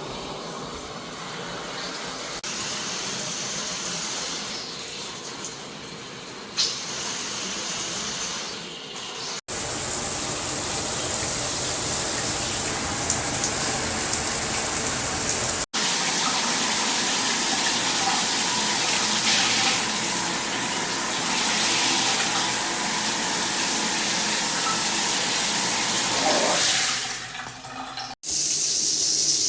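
Water spraying from a G-Promise all-metal shower head, a steady hiss of falling water. It gets louder after an abrupt break about nine seconds in, and cuts out briefly twice more.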